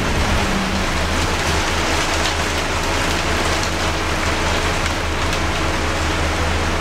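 Steady hiss of rain on the body and windows of a Scania K230UB bus, heard from inside the passenger cabin over the low drone of its Scania DC9 diesel engine.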